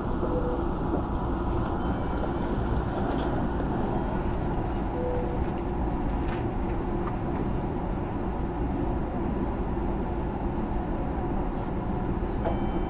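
Steady hum and rumble of a Hanshin Main Line electric train standing at a station before its doors close.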